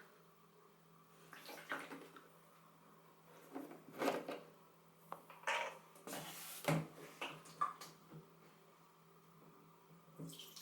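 Water sloshing and splashing in an oil drain pan, in several separate bursts.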